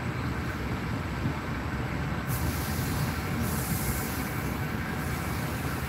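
A passenger train running, a steady low rumble heard from inside the carriage, with a hiss in the higher range joining about two seconds in.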